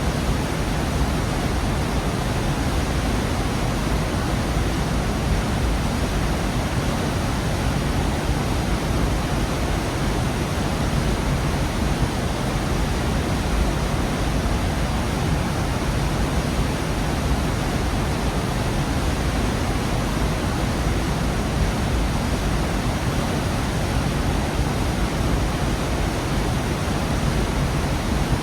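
Gorge waterfall: a steady, even rush of falling water, heaviest in the low end.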